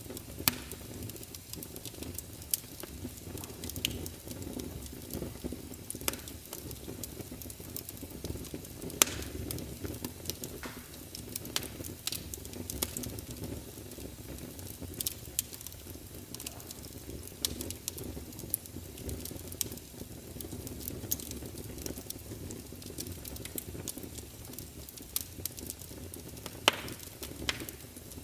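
Wood fire crackling: a steady low rumble of burning with frequent sharp pops and snaps, a few of them louder, such as one about nine seconds in and one near the end.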